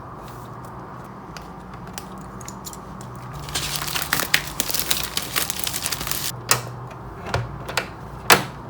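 Crinkling and rustling of handled wrapping for a few seconds, then a few sharp clicks, over a low steady hum.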